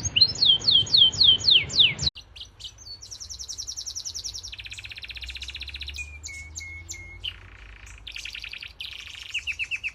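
Canary singing a long varied song: a run of about eight falling whistles, then a series of fast trills and rattling phrases, each held for a second or so before switching to the next.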